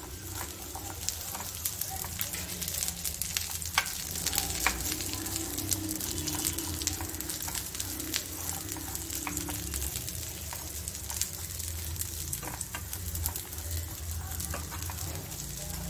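Chopped nuts and dates sizzling in hot ghee in a nonstick pan: a steady sizzle, with frequent light clicks and scrapes from the spatula stirring them. They are being fried only briefly, to crisp them.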